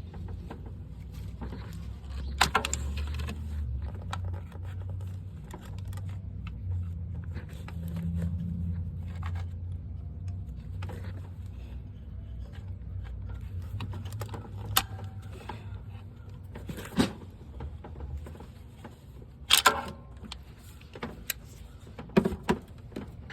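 Hand tools clinking and scraping on metal as a broken exhaust-manifold nut is worked loose, with a few sharp clinks standing out. Under them runs a low steady rumble that fades out about three-quarters of the way through.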